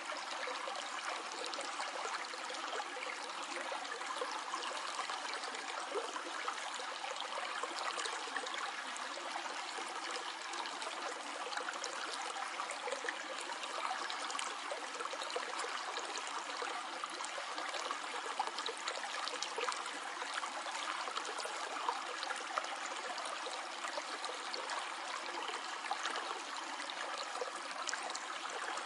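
Shallow stream flowing and trickling steadily, a continuous splashing hiss with many small bubbling flickers.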